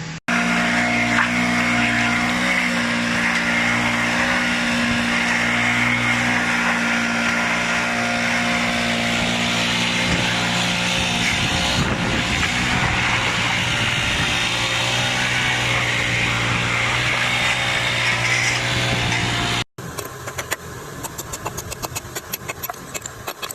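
A machine running steadily with an unchanging hum and noise, cut off abruptly near the end, followed by a rapid, even series of clicks.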